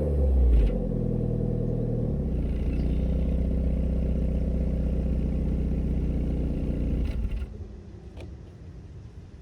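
2013 Nissan Sentra's 1.8-litre four-cylinder engine through its stock exhaust: a quick rev falling back to idle at the start, then a steady idle that cuts off abruptly about seven seconds in.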